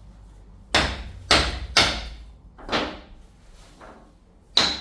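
A wooden wedge being tapped into a notched timber block with a hammer: about six sharp knocks at uneven spacing, one of them faint, driving the wedge in tight against the door.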